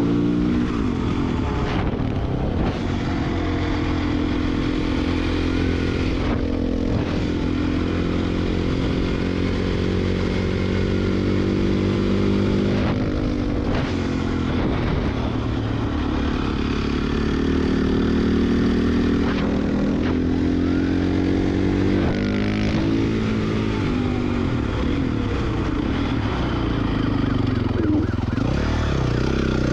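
Dirt bike engine running hard, its pitch rising and falling as the rider revs and shifts, with short breaks in the engine note every few seconds.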